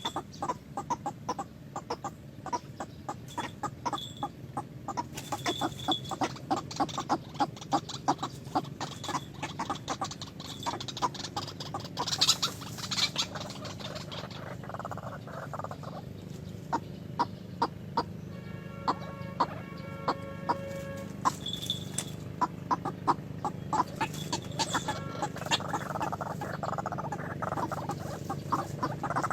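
Chickens clucking in a rapid run of short repeated calls, with a held tonal call about two-thirds of the way through and a steady low hum underneath.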